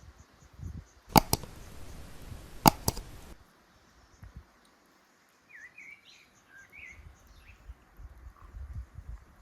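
Four sharp clicks or knocks in two quick pairs over a brief hiss, then a small bird chirping a handful of short notes.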